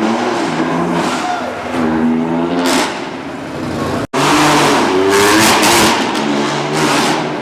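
Supercar engine revving repeatedly, its pitch climbing and falling with each blip of the throttle. About four seconds in the sound breaks off for an instant and comes back louder.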